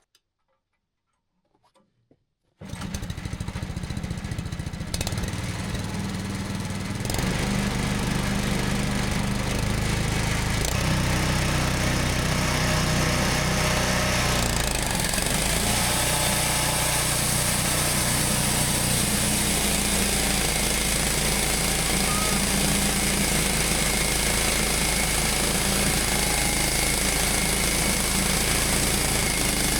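A sawmill's freshly fitted replacement engine starts up out of quiet about two and a half seconds in, steps up to a steady run a few seconds later, and from about halfway through the blade is sawing through a 10-inch fir board.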